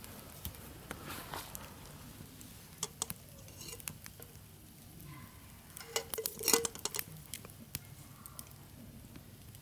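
Scattered light clinks and taps of metal cookware and utensils being handled, busiest about six to seven seconds in, where a few clinks ring briefly.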